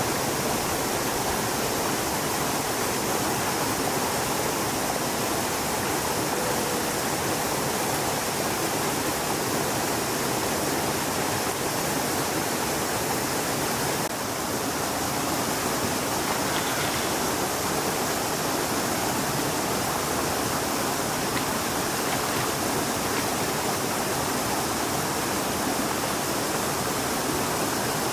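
Flowing stream water, a steady rush with no breaks.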